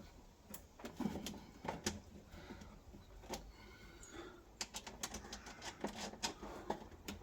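Irregular light metallic clicks and knocks of bolts and washers being handled and fitted, with a quicker run of clicks in the second half.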